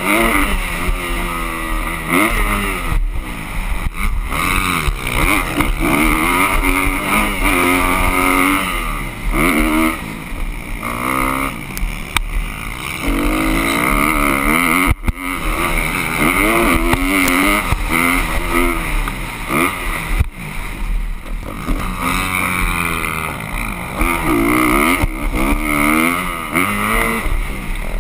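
Motocross bike engines revving hard and backing off again and again, their pitch climbing and falling every second or two as they accelerate and shift.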